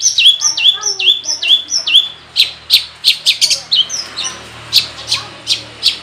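Long-tailed shrike (cendet) singing a mimicry-packed song. It opens with a run of quick whistles, each sliding downward, about three a second. About two seconds in it switches to a string of short, sharp notes at a similar pace.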